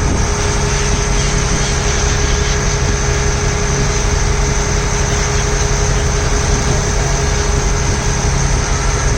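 A ferry boat's engine running steadily with a constant hum.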